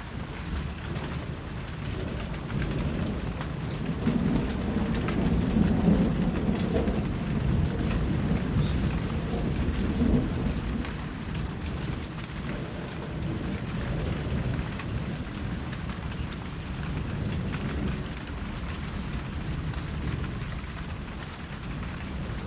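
Steady rain falling, with a long roll of distant thunder that swells from about three seconds in and dies away by about eleven seconds.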